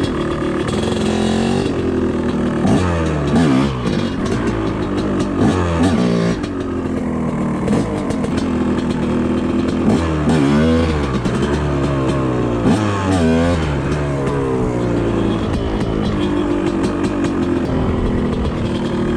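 TM Racing MX250 two-stroke dirt bike being ridden, the engine revving up and falling back repeatedly as the throttle is worked, with several quick rising revs.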